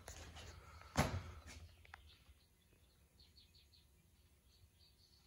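Casablanca Lady Delta ceiling fan being switched on: a sharp click about a second in, then faint, quick high chirps repeating in the second half.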